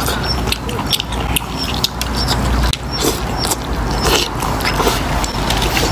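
Light clicks and clatter of eating noodles from a bowl with chopsticks, over a low steady rumble.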